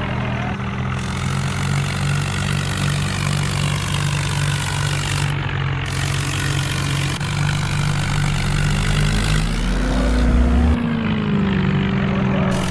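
Vehicle engine running steadily under a noisy wash, revving up about ten seconds in and settling back down.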